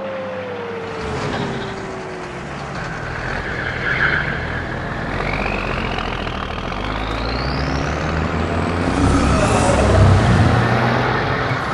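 Cartoon truck engine sound effect: a low engine rumble with a tone sliding down in pitch over the first couple of seconds, then a whine rising steadily in pitch from about five seconds in, as the rumble grows louder near the end.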